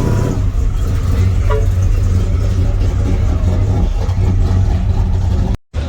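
Loud, steady low rumble of a car's engine and exhaust as cars roll out, cutting off abruptly near the end.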